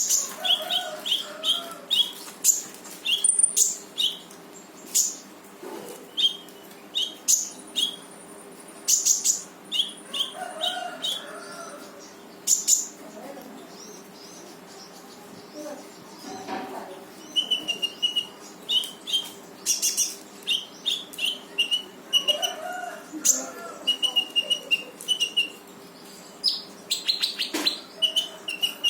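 Konin bird singing vigorously: runs of short, rapid chirps, with sharp piercing high notes in between, repeated over and over with brief pauses.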